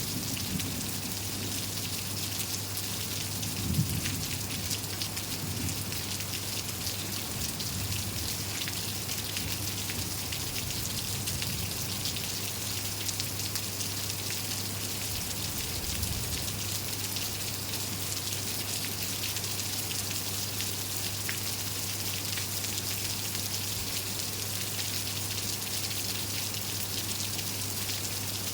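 Steady rain falling, a dense even patter of drops, with a single low thump about four seconds in.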